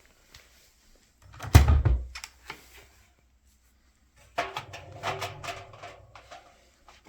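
Handling of a washing machine: a heavy thump about one and a half seconds in, then, from about four seconds in, a couple of seconds of clattering knocks and scraping, like a door or detergent drawer being worked.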